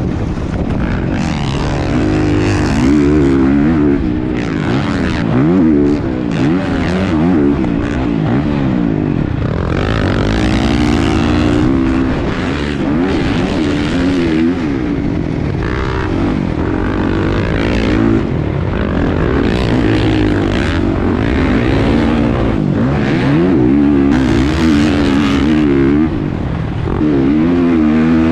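Motocross dirt bike engine revving hard, its pitch climbing and dropping again and again as it works through the gears around a track.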